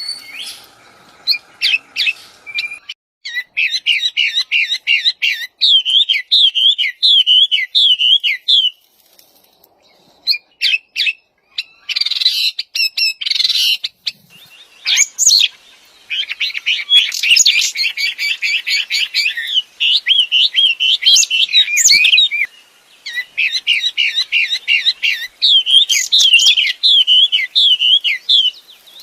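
A wambi songbird singing loudly and actively, in repeated bouts of fast chirping, warbling phrases with short pauses between them.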